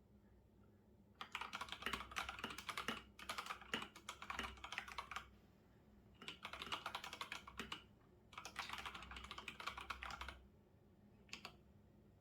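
Typing on a computer keyboard: four quick runs of keystrokes, each a second or two long with short pauses between, then a single keystroke near the end.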